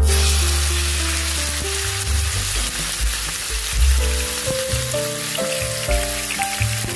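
Raw chicken pieces sizzling and crackling as they fry in hot oil in a frying pan. Background music plays over it.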